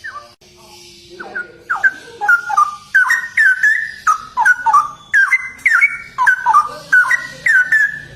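Straw-headed bulbul (cucak rowo) singing: a fast, continuous string of loud whistled notes that jump and slide up and down in pitch, starting about a second in.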